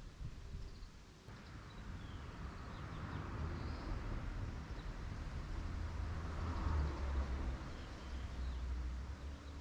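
Outdoor ambience: wind buffeting the microphone in an uneven low rumble that grows stronger in the second half, with faint bird calls.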